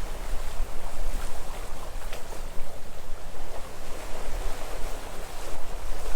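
Sea waves washing onto the shore in a steady wash of surf, with wind buffeting the microphone as a low rumble.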